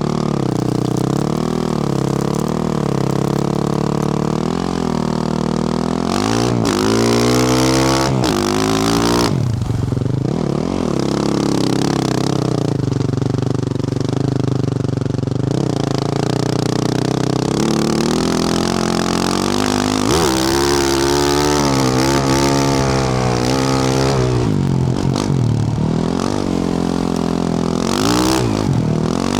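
2024 Yamaha YZ450F single-cylinder four-stroke dirt bike engine, through a Yoshimura RS-12 exhaust, running under load while being ridden. Its pitch rises and falls again and again as the throttle is worked.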